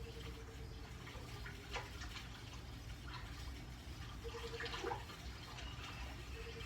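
Water splashing and dripping in scattered bursts over a low rumble, heard as a nature documentary soundtrack of crocodiles thrashing at a carcass in a river, played back in a small room. A faint steady hum comes and goes.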